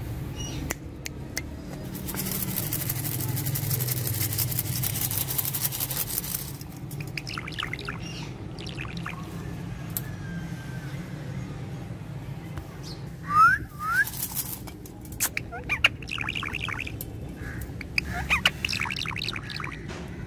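Pet parrot chirping and squawking in quick bursts, with two loud rising whistled notes about two-thirds of the way through. Early on there are a few seconds of dense scratchy rustling.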